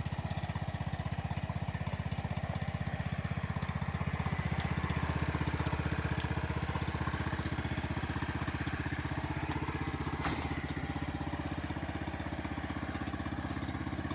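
Small petrol engine of lawn-mower type running steadily with an even, fast pulse, with one brief click about ten seconds in.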